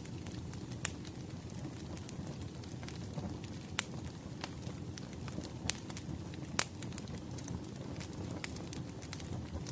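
Wood fire crackling: a steady low rumble with scattered sharp pops, four of them standing out.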